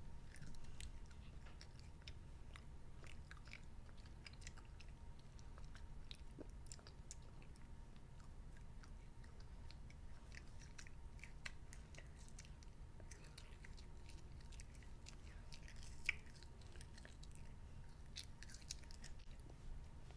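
A child chewing a mouthful of gummy candy grass: faint, irregular wet chewing and biting clicks over a low steady hum.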